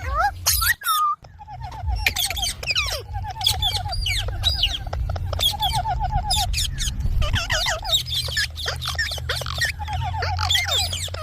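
Pet parrots chattering and chirping, several calls overlapping, with repeated quick runs of short notes. A steady low hum runs underneath.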